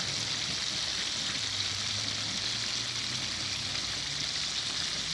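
Chicken pieces deep-frying in hot oil in a discada, a steady sizzle.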